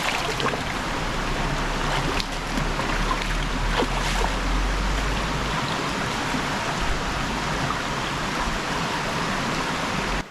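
Stream water rushing over rocks in a steady wash of noise, with a few light knocks. It cuts off abruptly at the end.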